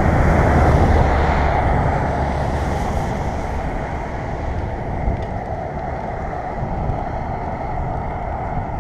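Wind rumbling on the microphone of a moving bicycle, mixed with road and traffic noise; loudest in the first couple of seconds, then easing off a little.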